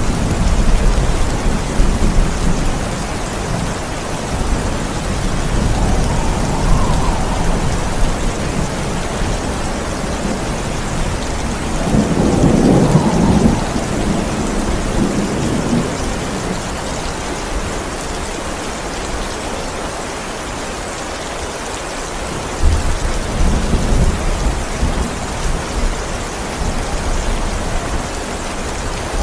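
Steady heavy rain with thunder rumbling low several times over it, the strongest roll a little before the middle.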